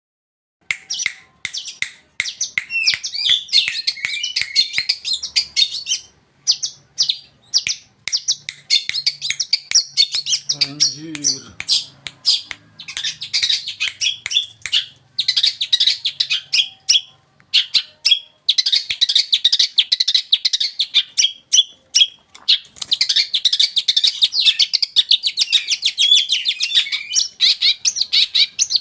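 Long-tailed shrike (cendet) singing energetically: a rapid, high-pitched chattering song in long runs broken by short pauses.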